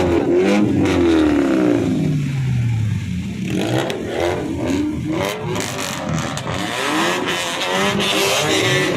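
Loud engines of show cars and motorbikes revving, the pitch repeatedly climbing and dropping, with a long falling rev in the first few seconds and several overlapping revs after that.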